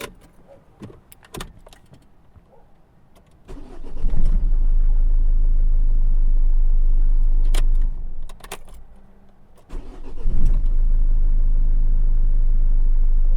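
Renault/Nissan 2.0 dCi four-cylinder diesel engine started after a few clicks, running steadily for about four seconds, dying away, then started again about ten seconds in and running on.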